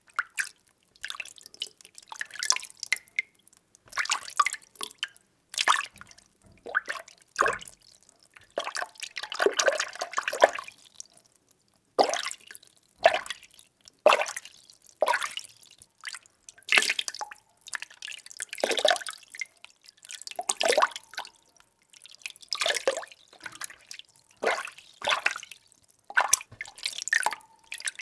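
Water being stirred, giving a run of short sloshes and splashes about once a second, with a longer swirling stretch near the middle.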